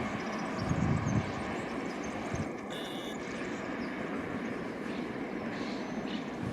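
Steady, distant engine drone over the station background noise, with a brief high tone about three seconds in.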